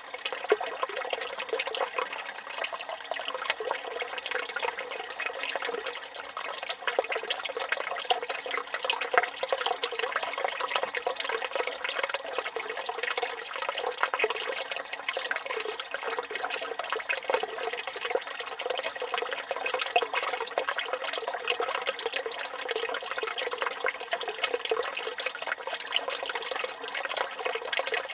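Water pouring steadily from a village fountain spout and splashing into the stone basin below, a continuous splashing with no breaks.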